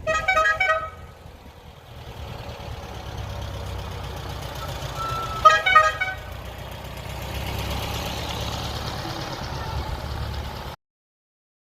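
Vehicle horn honking in two quick bursts of short toots, the first right at the start and the second about five and a half seconds in, over a low engine rumble; everything stops abruptly about a second before the end.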